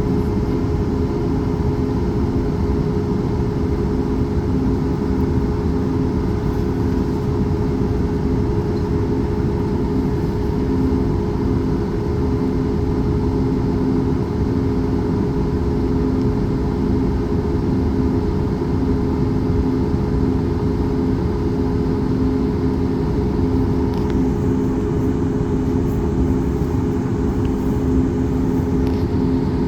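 Airplane engines during takeoff, heard from inside the cabin: a steady, loud drone with several steady hum tones. A faint higher hiss joins about three quarters of the way through and stops shortly before the end.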